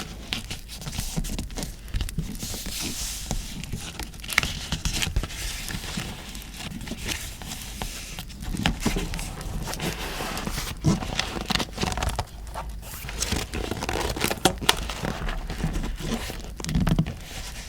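Paper and stationery being handled: crinkling and rustling, with irregular sharp taps and clicks throughout.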